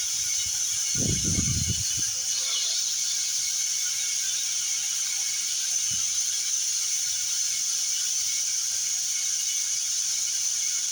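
Compressed air hissing steadily from an air hose into a small tractor tire, inflating it just after its bead has been re-seated on the rim. A few low knocks come about a second in.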